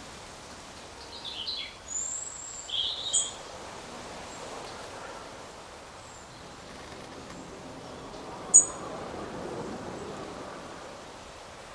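Forest birds calling: a quick run of short falling notes and high chirps in the first few seconds, then one sharp high chirp near the end, over a steady hiss of forest ambience that swells softly for a couple of seconds.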